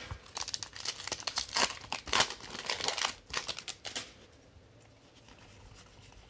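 Plastic trading-card pack wrapper crinkling and tearing as it is opened by hand, in quick crackly strokes that die away after about four seconds.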